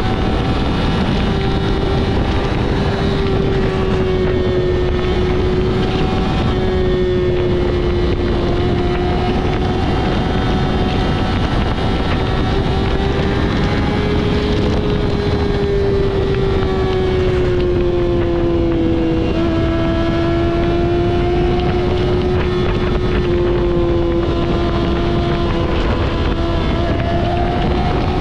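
Yamaha R6's inline-four engine through a Two Brothers full exhaust system, running at steady high revs while riding, its pitch rising and falling slightly. Heavy wind noise on the microphone throughout.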